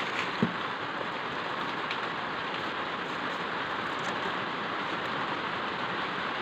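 Steady rain falling, an even rushing patter throughout. About half a second in, one short wooden knock as a stick is set down in the hearth.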